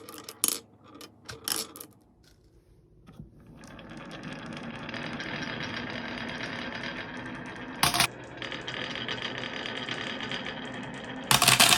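Glass marbles on a marble run: a few sharp clicks, then a steady rolling whir that builds for several seconds with one sharp knock partway through, and a loud rapid clatter near the end.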